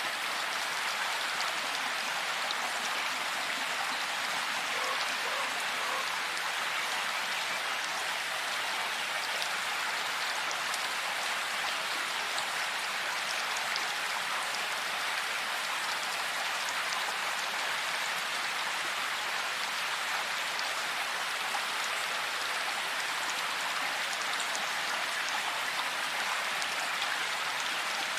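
Steady rain falling, an even hiss with many fine drop ticks on top.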